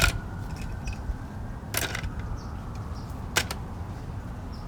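Three sharp clicks, roughly a second and a half apart, over a steady low rumble.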